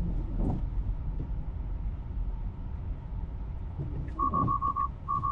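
Low road rumble inside a Tesla driving on snowy streets. Near the end, a Tesla alert chime starts: rapid high beeps in runs of five, twice. This is the warning that Full Self-Driving is handing control back because a camera is blocked by snow.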